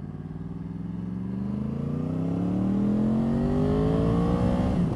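2014 Yamaha R1's crossplane inline-four engine accelerating steadily through a gear, its pitch rising slowly, then dropping sharply near the end at an upshift before it begins climbing again.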